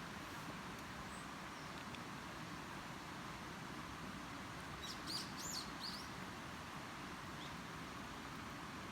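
A bird gives a quick run of high chirps about five seconds in, over a steady hiss of outdoor background noise.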